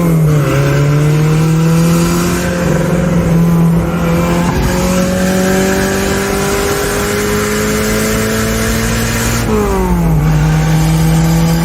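Turbocharged Toyota 3A-C four-cylinder engine in a Tercel 4WD wagon pulling hard under acceleration. Its note rises slowly through a gear, with a drop in pitch at a gear change just after the start and another about nine and a half seconds in.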